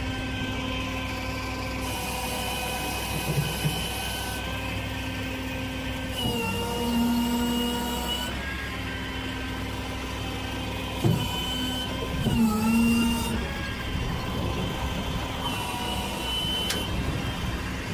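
Rollback flatbed tow truck's engine running steadily while driving. Its pitch shifts about six seconds in and dips again around twelve seconds as engine speed changes, and there is a single thump about eleven seconds in.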